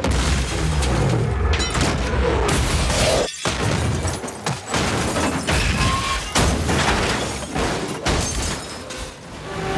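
Film car-crash sound effects: a series of heavy booming impacts with breaking glass, cut by a brief moment of silence a little over three seconds in.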